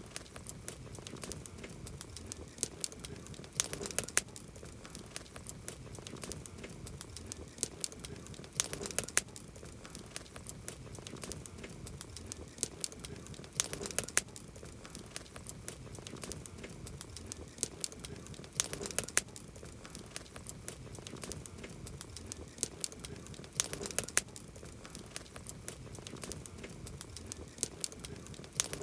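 Wood campfire crackling: scattered sharp pops and snaps over a low steady hiss, with a louder cluster of pops about every five seconds.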